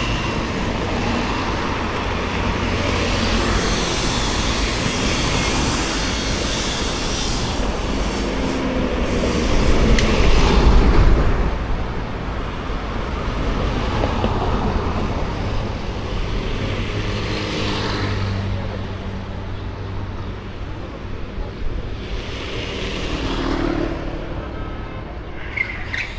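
Road traffic: cars running past, with one vehicle passing close and loud about ten seconds in.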